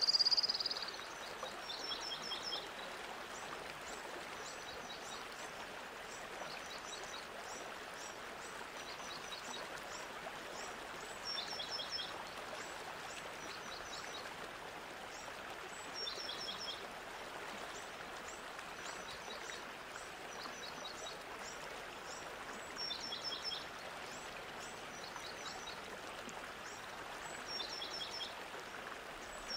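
A bird calling over and over: a short burst of quick, high, falling notes about every five seconds, over a steady rushing background. A louder high whistle sounds right at the start.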